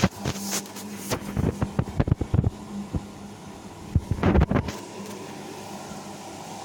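Samsung P1271 washing machine running a wash: a steady motor hum, with irregular bursts of knocking and sloshing in the first two thirds, then only the hum.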